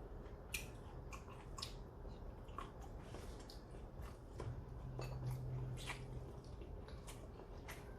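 Close-up chewing and biting of food from a Korean meal of grilled beef ribs and kimchi, with scattered wet mouth smacks and small clicks. A low hum runs for about two seconds midway.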